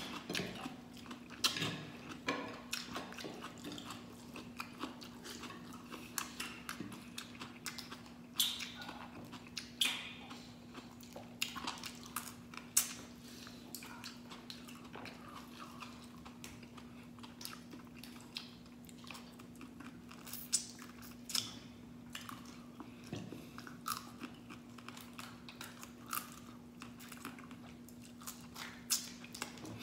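Close-up eating sounds: irregular chewing, biting and crunching as a man eats crab, rice and fresh cucumber with his fingers, with wet smacks and crisp crunches scattered throughout. A steady low hum runs underneath.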